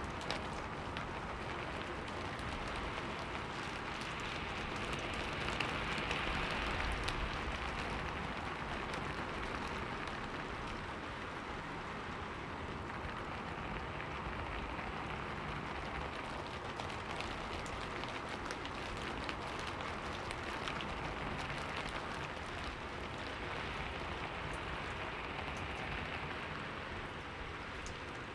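Steady rain, with many fine drops ticking on a surface and slow gentle swells in intensity.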